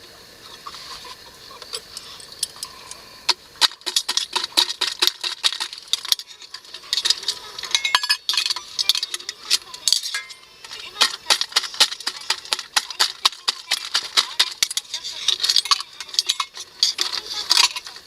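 Utensils clinking and scraping against cookware in quick, irregular strokes, with a brief lull midway.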